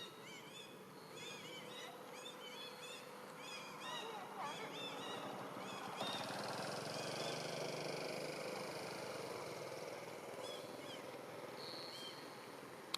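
Animal calls: many short high chirps, several a second, for the first few seconds, then a louder rushing noise from about six seconds in that slowly fades.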